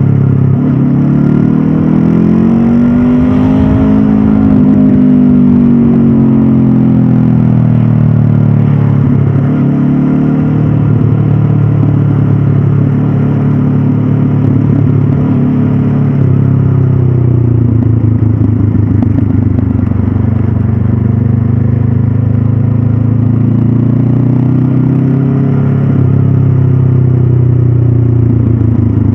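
2022 Honda CB500F's parallel-twin engine through its stock exhaust, under way and changing with the throttle: the pitch climbs over the first few seconds and falls away, then runs fairly steady before rising and dropping again near the end.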